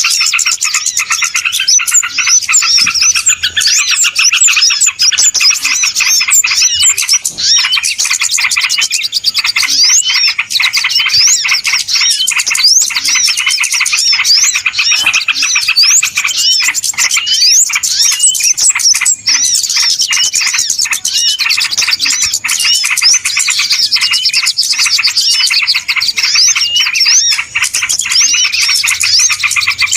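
Dense, noisy chorus of many small birds chirping and twittering over one another without a break: a bird-lure (pikat) recording of a busy flock, used to call wild birds in.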